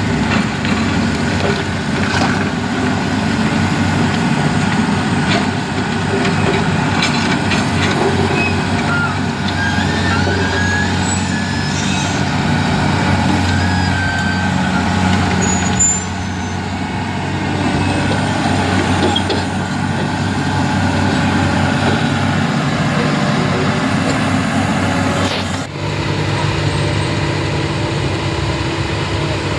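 Heavy truck engines running as traffic passes, a steady low drone. The sound changes abruptly near the end.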